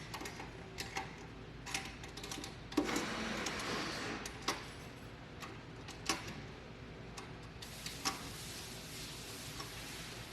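Sharp clicks and knocks from the setup of a lathe's steady rest, spaced irregularly about a second or two apart, over a steady machine hum. About three seconds in there is a hiss lasting about a second.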